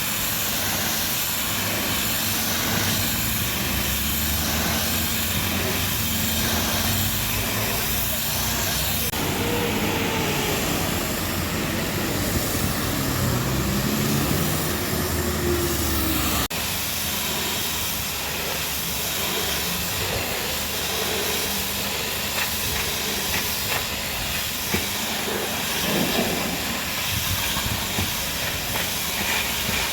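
Pressure washer spraying a truck: a steady hiss of high-pressure water that changes abruptly twice, about nine and sixteen seconds in.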